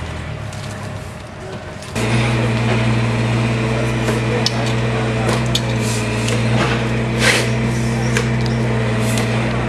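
A machine starts humming loudly and steadily about two seconds in, with scattered sharp knocks and clicks over it.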